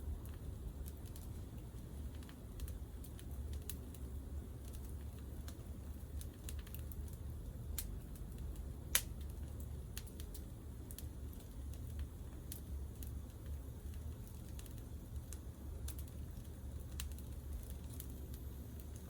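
Wood campfire crackling, with irregular small snaps and one louder pop about nine seconds in, over a steady low rumble.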